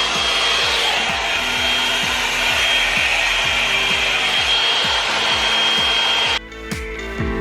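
Revlon One-Step dryer brush running: a steady rush of hot air with a constant high motor whine, cutting off suddenly about six seconds in.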